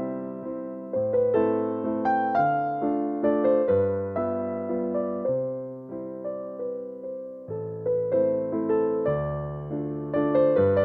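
Background music: a slow, gentle piano piece, notes struck and left to fade, with the chords changing about once a second.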